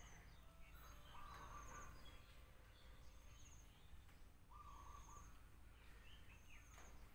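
Quiet outdoor ambience with faint, distant bird calls: a short high trill repeated every second or two and a couple of brief lower calls, over a low steady rumble.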